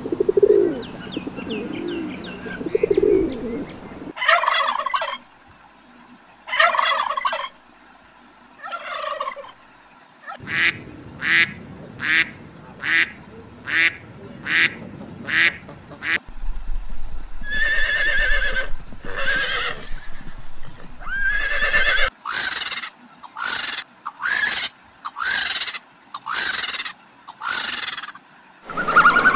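Birds calling: low pigeon cooing for the first few seconds, then loud, short calls repeated about twice a second in runs with brief gaps, likely Canada geese honking.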